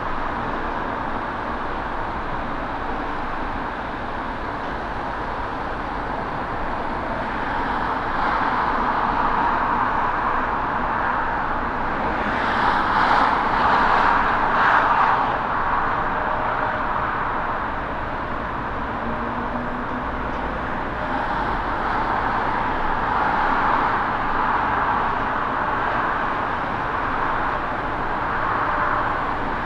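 Airbus A220-300's Pratt & Whitney PW1500G geared turbofans at takeoff power: a steady rushing jet roar that swells to its loudest about halfway through, then eases off.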